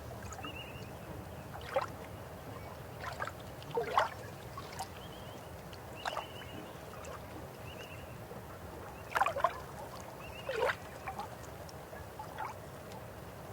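River water flowing with a steady low rush, broken by sharp gurgles and splashes every second or two, the loudest about four seconds in and again near the middle. Faint short high chirps come and go.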